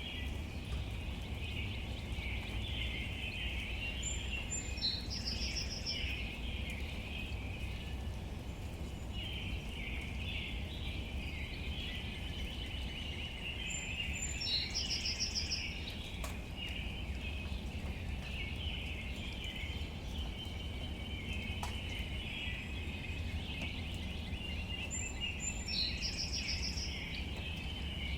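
Outdoor ambience of a steady chorus of high chirping birds or insects over a low rumble. A single bird's call, a short high note followed by a quick trill, repeats three times about ten seconds apart.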